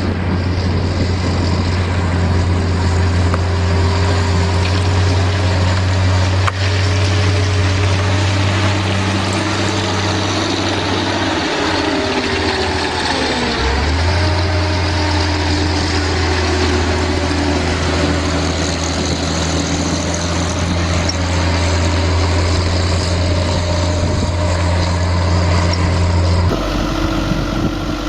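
Heavy farm machine engine running with a steady low hum. About halfway through it dips briefly in pitch, as if bogging under load, then recovers. The sound changes abruptly near the end.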